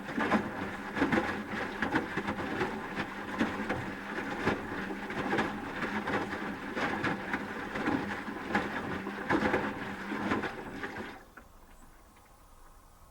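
Asko Quattro W6098X washing machine drum tumbling the wet load during the heating phase of the wash: a motor hum with irregular sloshing and the laundry falling. It stops about eleven seconds in, leaving a pause between drum turns.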